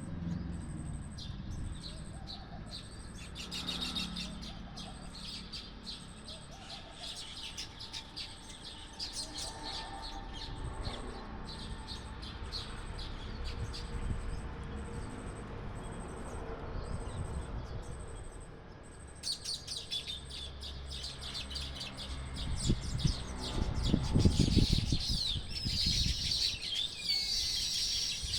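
Many small birds chirping in quick, overlapping bursts, busiest in the last third. A faint high steady whine runs under the first two-thirds, and a low rumble is loudest a few seconds before the end.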